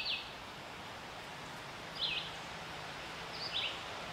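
Small bird chirping: three short, falling chirps, some in quick pairs, about every one to two seconds over steady outdoor background noise.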